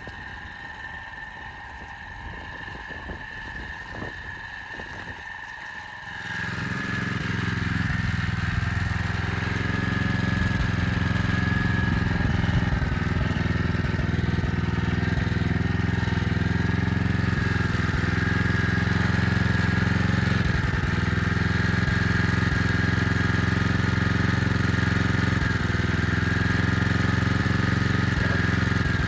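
Portable generator starting about six seconds in, then running steadily at an even pitch.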